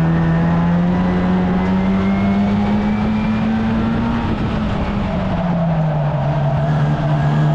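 1300cc stock car engine running at steady racing speed, its pitch rising slowly, then falling back about five seconds in as the throttle eases off.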